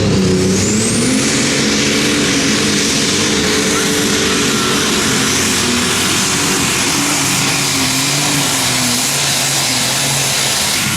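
Turbocharged diesel engine of an unlimited super stock pulling tractor running at full power under load, with a high turbo whine that climbs over the first second or so and then holds while the engine note wavers.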